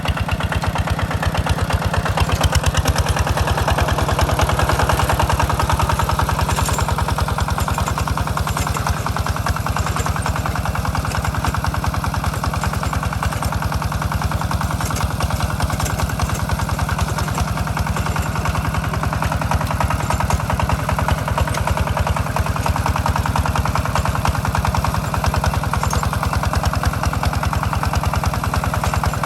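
Single-cylinder diesel engine of a two-wheel walking tractor running steadily, its rapid even firing pulses unchanged throughout.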